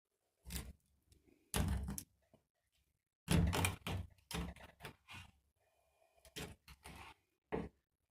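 A series of irregular short knocks and scrapes, about eight over several seconds with quiet gaps between, the loudest cluster coming about halfway through.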